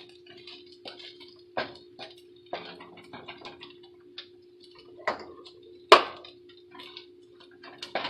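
Scattered light clicks and taps of kitchen cookware and utensils, with one sharp knock about six seconds in, over a steady low hum.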